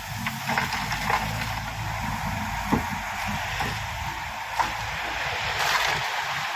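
Shantui SD16 crawler bulldozer's diesel engine running steadily under a rushing, scraping noise of pushed gravel and clanking tracks, with two sharp metallic knocks in the middle.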